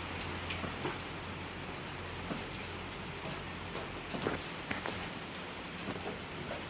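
Heavy rain falling, an even hiss with scattered sharp drip taps. Under it, a small fridge fan motor runs with a steady low mains hum for the first four seconds or so, then falls away.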